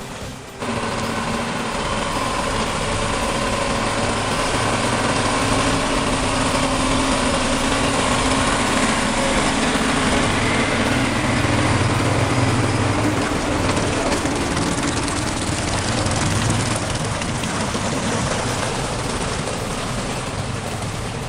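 A heavy vehicle's engine running steadily, with a brief drop about half a second in.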